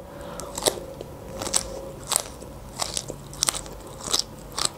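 Close-up chewing of a mouthful of shredded raw carrot, a crisp crunch about every half second.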